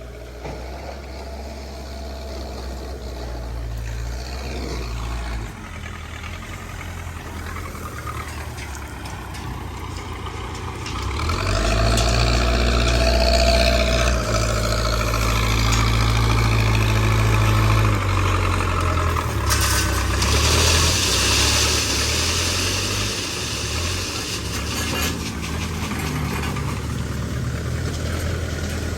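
Backhoe loader's diesel engine running, growing louder and working harder about a third of the way in, then easing off a little. A rushing hiss of a few seconds comes about two-thirds of the way through.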